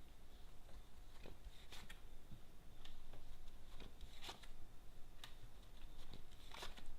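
Tarot cards being handled and laid out: scattered soft rustles and light taps of card on card and on the table, over a low room hum.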